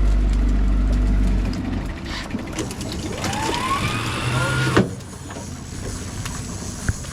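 Low rumble of the trolling boat's motor running. About three seconds in, a whine rises in pitch for a second and a half and stops with a sharp click.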